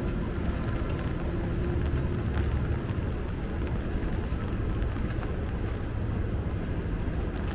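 Rainy city street ambience: a steady low rumble of motor traffic with a faint hum that fades out about two seconds in, over an even wash of rain and wet-road noise with faint scattered ticks.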